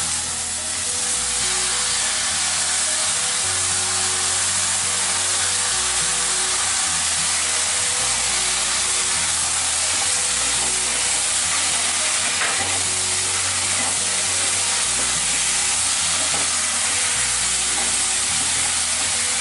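Chopped tomatoes sizzling steadily and loudly in hot oil in a kadai with frying onions, stirred with a wooden spatula. Background music with slow, held bass notes plays underneath.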